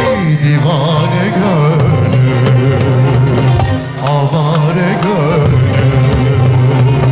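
Live Turkish art music ensemble playing an ornamented melody with wavering vibrato over a steady low line and light percussion.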